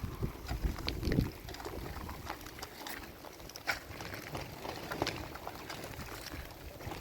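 Wind buffeting the microphone in low gusts, strongest in the first second or so, with scattered light ticks and taps throughout.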